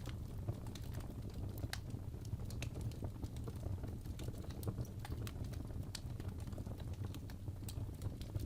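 Wood fire crackling in a fireplace: irregular sharp snaps and pops over a steady low rumble of the burning.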